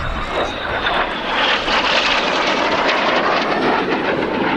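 BAE Hawk T1 jet aircraft, with Adour turbofan engines, flying past in a loud, steady jet roar with a faint high whine that slowly drops in pitch.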